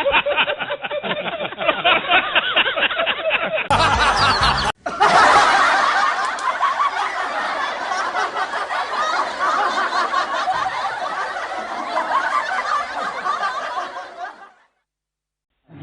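Laughter sound effects played back to back: a few seconds of laughing, a brief different clip about four seconds in, then a long, dense stretch of many people laughing together that fades out near the end.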